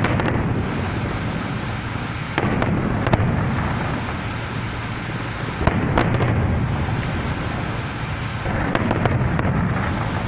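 Fireworks going off: sharp bangs every few seconds, with a quick cluster of them near the end, over a continuous rumble and crackle of distant bursts.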